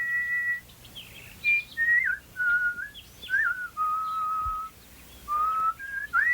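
Whistled bird song: a string of long, clear held notes that step mostly downward in pitch, broken by short chirps and warbles, ending in a quick rising swoop.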